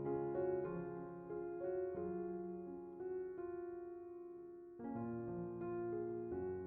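Soft, slow background piano music, single notes over held chords.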